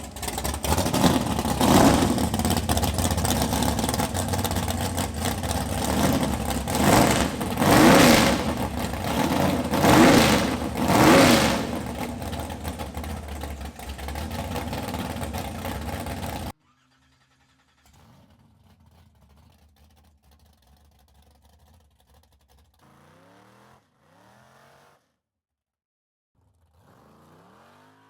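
Chevrolet COPO Camaro drag car's 572 cubic-inch big-block V8 running loudly and being revved in several blips, the pitch rising and falling with each. The sound cuts off suddenly about two-thirds of the way through, leaving only faint sounds.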